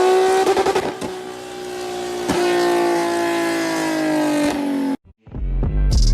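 Car engine running at high revs with a steady, strong tone that rises slightly, then slowly sinks in pitch before cutting off abruptly near the end.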